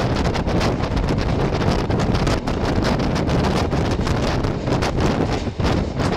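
Wind buffeting the camera microphone over the steady running rumble of a moving passenger train.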